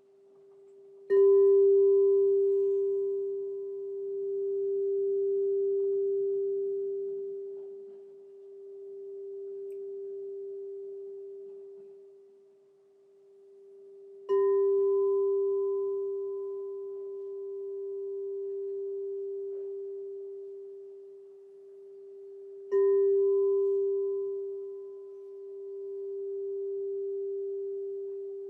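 Crystal singing bowl struck three times, each strike ringing on as one long steady tone with a fainter higher overtone, its loudness swelling and ebbing in slow waves as it decays.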